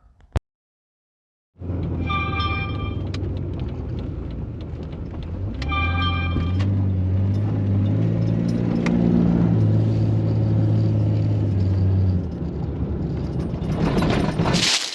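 A vehicle engine running with a steady low drone, revving up twice in the middle and easing off about three seconds before the end. Two short pitched beeps sound over it early on and around the first rev. Near the end the engine gives way to a rustling noise.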